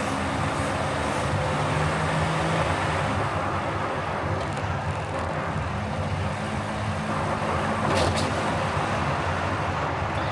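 Car driving on city roads: steady engine and tyre noise with low tones that shift slowly, and a brief double click about eight seconds in.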